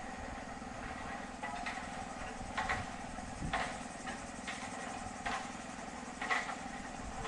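Construction-site machinery: an engine hums steadily, with half a dozen irregular clanks or knocks.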